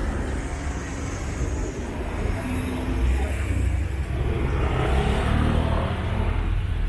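Street traffic with a steady low rumble; a motor vehicle passes, its sound swelling between about three and six seconds in.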